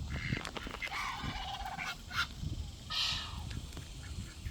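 Waterfowl calling: a drawn-out honking call about a second in and another about three seconds in.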